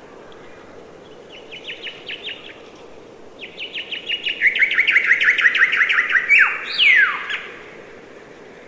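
A songbird singing: a short trill of rapid chirps, then a longer, louder trill of rapid notes that ends in a few notes sweeping sharply down in pitch.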